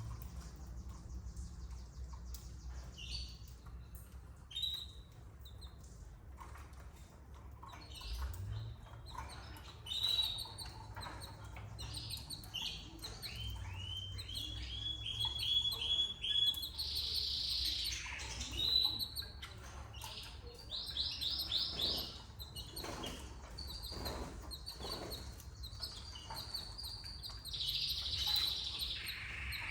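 Canaries chirping in short calls and rapid trilled runs, busier from about a third of the way in, with scattered small clicks and knocks among them.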